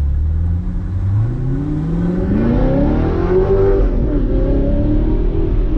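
Audi R8's 4.2-litre V8 accelerating, heard from inside the cabin. Its pitch climbs steadily for about three seconds, drops back around four seconds in, then starts climbing again.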